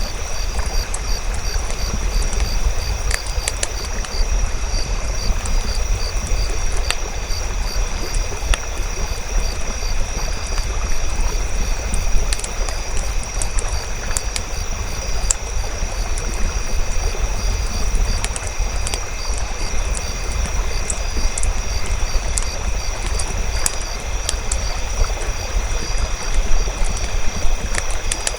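Campfire crackling, with scattered sharp pops over a steady low rumble. A steady high pulsing chirr runs underneath.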